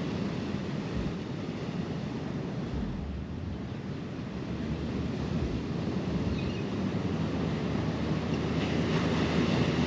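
Ocean surf washing against the shore, with wind buffeting the microphone: a steady rushing noise, heaviest in the low range.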